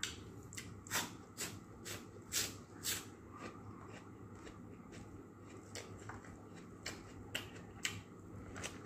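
Close-up eating sounds: crisp crunching clicks from chewing raw vegetable. They come about every half second and are loudest in the first three seconds, then fainter and sparser.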